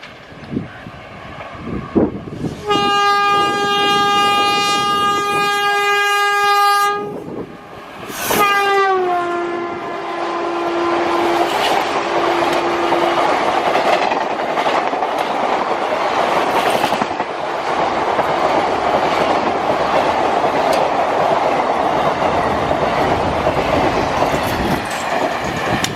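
Indian Railways locomotive horn: one long steady blast, then a second blast about 8 s in that drops in pitch as the train passes at speed. The coaches then rumble and clatter past on the rails.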